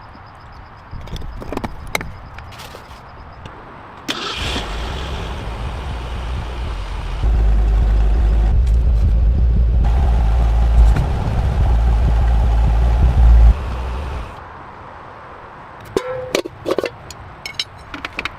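Car engine starting and running, growing much louder for several seconds before it is shut off, with a few sharp clicks near the end.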